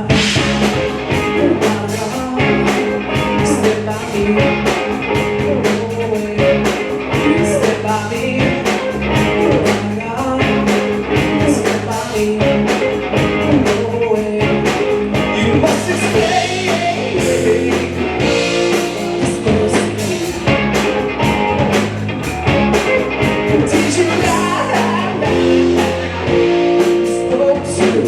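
Live rock band playing a steady beat, with electric guitar and drum kit and vocals at times.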